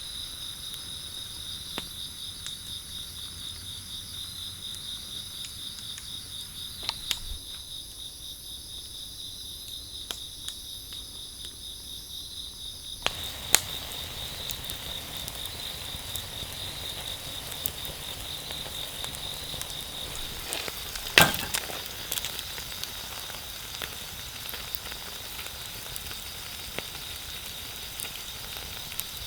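Night insects chirping steadily over a campfire's crackle and scattered pops. About thirteen seconds in, the fire's hiss grows fuller, and one loud crack sounds about twenty-one seconds in.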